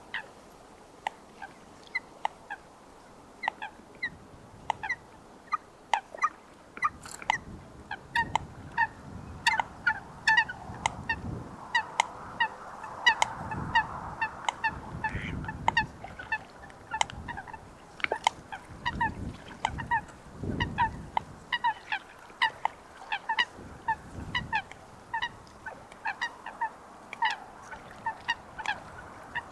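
Eurasian coots calling: a steady stream of short, sharp single notes, about two a second, on and off throughout.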